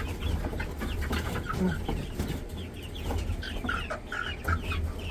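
A flock of poultry clucking and calling in many short, overlapping chirps, over a steady low rumble.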